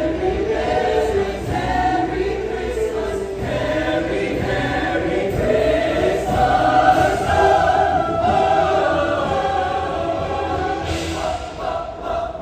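Show choir singing a held, sustained choral passage.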